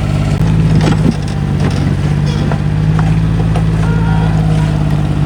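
Mini excavator's engine running steadily, with a few short knocks and clanks.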